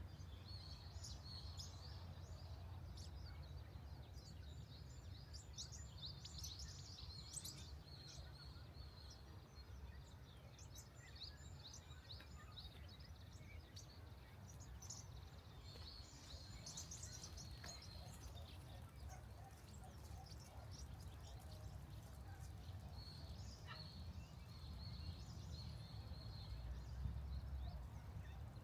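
Small birds chirping and calling in short high notes, in three spells (early on, about halfway, and near the end), over a faint steady low rumble.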